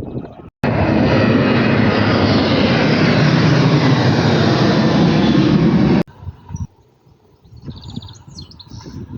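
Airliner engines running loud and steady. The sound cuts in abruptly about half a second in and cuts off just as abruptly about six seconds in, leaving faint outdoor background.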